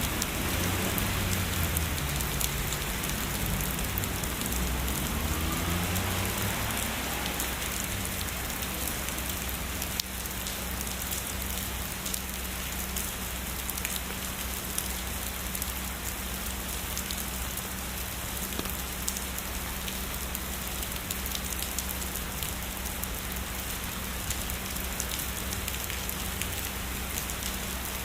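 Heavy rain falling steadily, with many sharp drop ticks over a dense hiss. A low rumble of distant thunder runs through the first several seconds and fades away, leaving only the rain.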